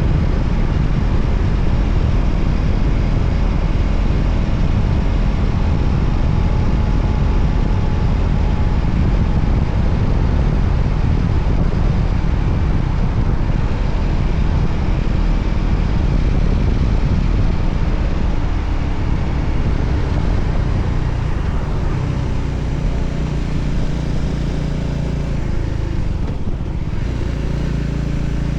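Voge 300ACX motorcycle on the move: steady, loud wind and road noise over the engine's low drone. In the last several seconds it eases a little and the engine's steady hum stands out more, as when the bike slows.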